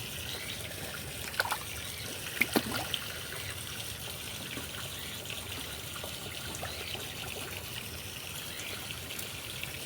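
Water trickling steadily, with a few short knocks or splashes about one and a half and two and a half seconds in.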